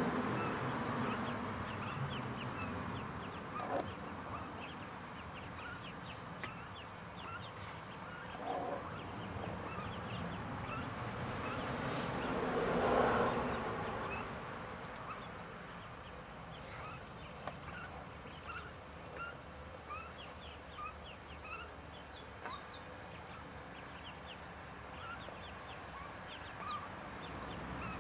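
Mallard ducklings peeping: many short, high peeps scattered throughout, over a steady background noise that swells briefly about halfway through.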